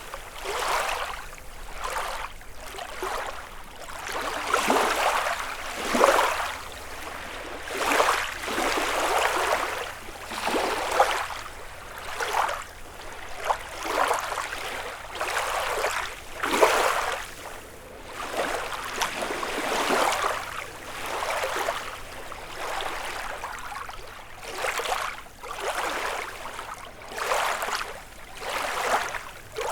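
Small freshwater lake waves lapping against the shore, one soft wash breaking every second or two in an uneven rhythm.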